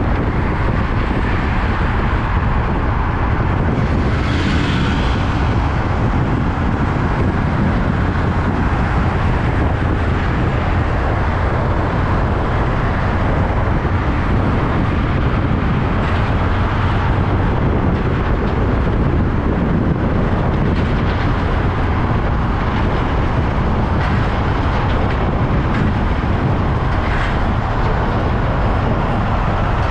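Steady rumble of heavy truck engines and traffic, without a break.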